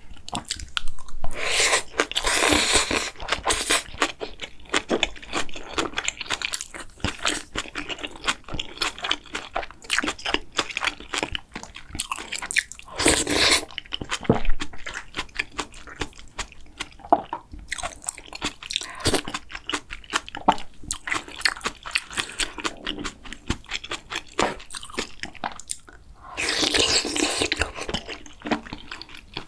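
Close-miked eating sounds: a person chewing and crunching mouthfuls of food, with a steady run of wet mouth clicks. There are louder, noisier stretches about two seconds in, around thirteen seconds in and near the end.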